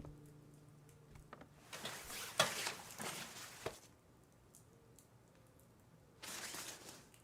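Faint rustling and handling noises in a quiet room, with a few light clicks, after a music cue fades out.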